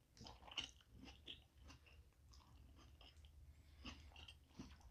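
Faint close-up chewing of fried fast food, with soft irregular crunches and wet mouth clicks.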